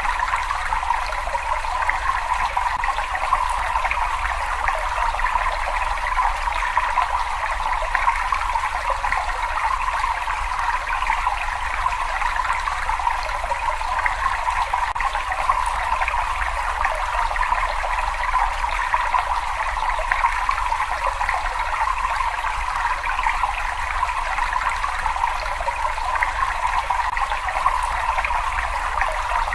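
Cave water running and trickling steadily without a break, with a low rumble underneath.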